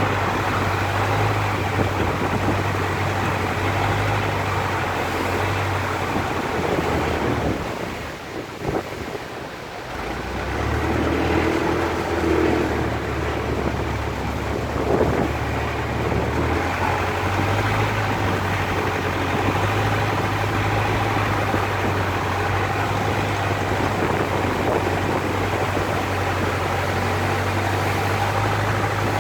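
Boat engine running with a steady low hum under the rush of wind and water. The engine eases off about eight seconds in and picks up again a couple of seconds later.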